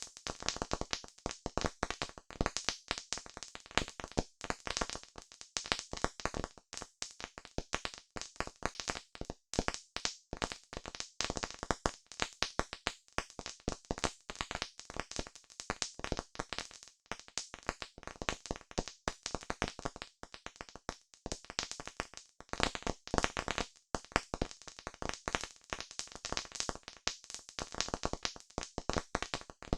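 Campfire crackling: a dense, irregular run of sharp pops and snaps from burning wood, with no letup.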